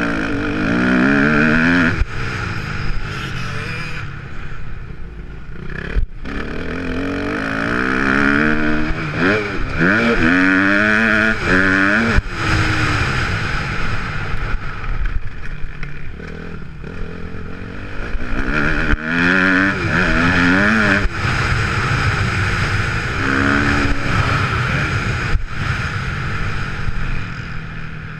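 Kawasaki KX250F motocross bike's four-stroke single-cylinder engine revving hard around the track. Its pitch climbs in repeated sweeps, drops as it shifts or rolls off, then climbs again, with a few sharp knocks along the way.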